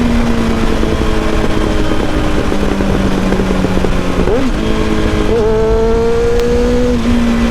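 Kawasaki ZX-7R's inline-four engine running under way at a fairly steady pace, its revs dipping briefly about four seconds in and then climbing gently. A steady rush of wind runs under it.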